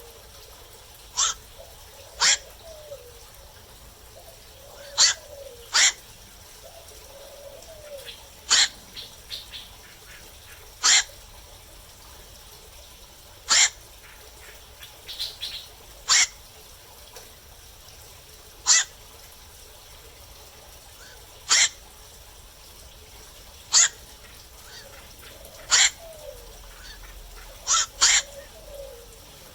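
Black-crowned night heron calling at night: short, harsh single calls about every two to three seconds, some of them in quick pairs, with a few fainter calls between.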